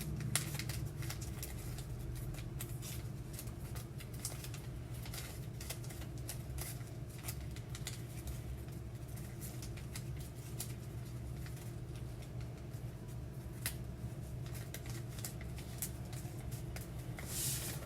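Sheet of paper being folded and creased by hand: faint scattered crinkles and taps over a steady low hum, with a louder rustle near the end.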